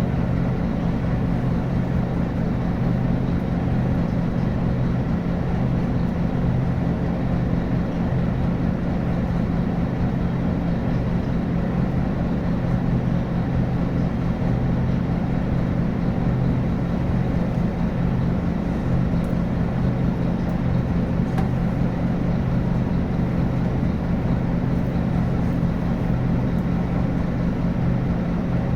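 Scania N280UB city bus's rear-mounted diesel engine running steadily, with a constant low hum that neither rises nor falls in pitch.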